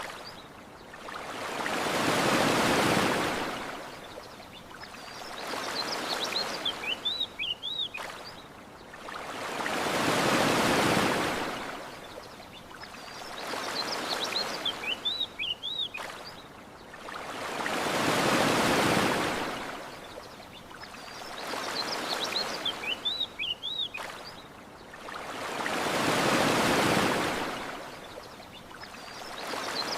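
Ocean waves washing up a shore: a large surge and a smaller one in turn, with a small bird chirping a quick run of notes between surges. The same eight-second pattern repeats exactly, a short looped recording.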